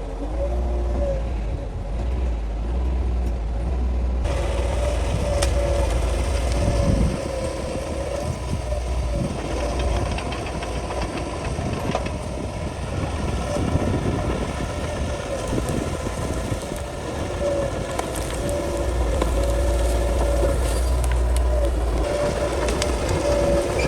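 Bulldozer's diesel engine running steadily, with a wavering high whine that keeps breaking off and coming back, and scattered short cracks and knocks throughout.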